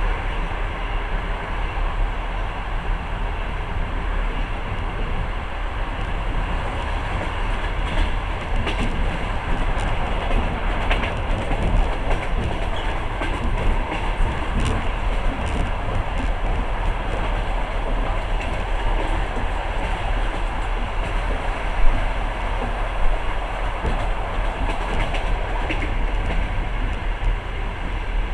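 Long-distance passenger train running on the rails, heard from inside the carriage: a steady rumble and rush with scattered wheel clicks, and one sharp knock about three-quarters of the way through.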